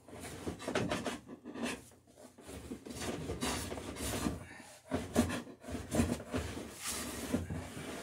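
Beading tool scraping a bead into a wooden boat rail: a steel screw tip serves as the cutter. It is pulled along the wood in repeated strokes of a second or two, each a dry scraping rasp.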